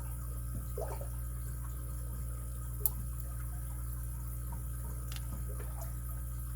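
Steady electrical mains hum, with a few faint handling sounds and one sharp small click about three seconds in.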